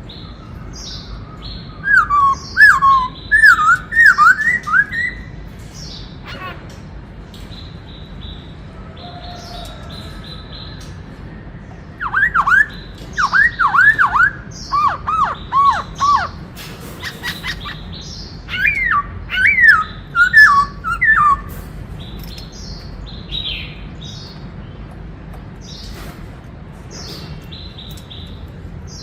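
Black-throated laughingthrush singing in three loud bouts of rapid, downward-slurred whistled notes. Fainter high chirps come between the bouts.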